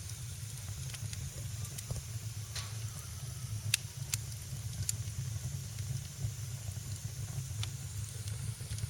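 Wood fire in a fireplace crackling: a handful of sharp pops, the loudest about four seconds in, over a steady low rumble and hiss.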